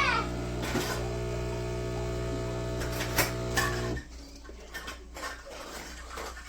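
Philips Series 3300 fully automatic espresso machine humming steadily as it runs, then cutting off abruptly about four seconds in, followed by a few light clicks.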